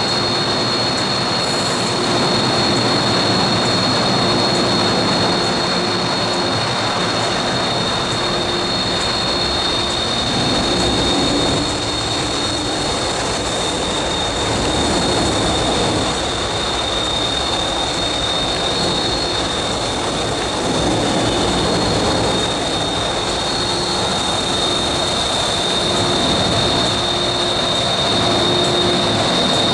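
MTR M-Train electric multiple unit running out of the station past the platform: a steady rumble of wheels and motors that swells and eases, with a constant high whine over it.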